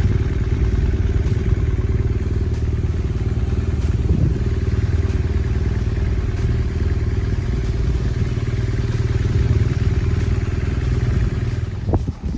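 BMW R1200R boxer-twin motorcycle under way, a loud steady low drone of engine and riding noise. It drops off suddenly near the end.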